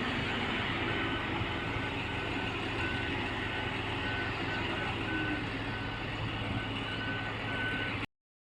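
Heavy truck's diesel engine running steadily while a warning beeper sounds short high beeps about twice a second; the sound cuts off abruptly near the end.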